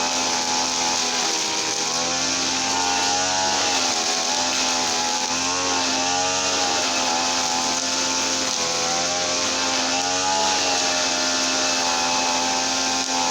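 Small petrol engine of a garden machine running steadily, its speed rising and falling a little several times.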